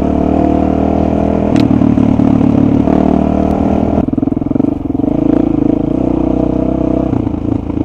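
Dirt bike engine running under way on a rough footpath, its pitch stepping up and down several times as the throttle changes. A sharp click about a second and a half in.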